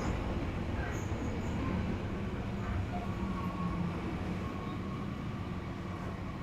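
Odakyu Enoshima Line electric train running along the track: a steady rumble of the car with a faint steady hum under it.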